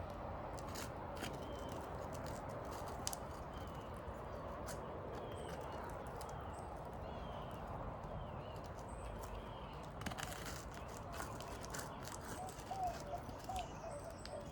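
Scattered clicks and scrapes of a pry bar working under asphalt roof shingles to break their stuck seal strips, over a steady outdoor background. Birds chirp a few times in the middle.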